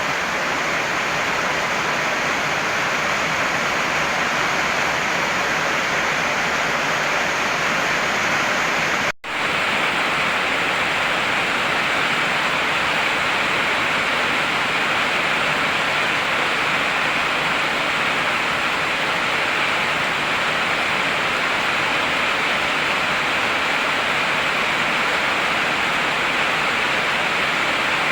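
Heavy rain falling steadily as a continuous even hiss. The sound cuts out for a split second about nine seconds in.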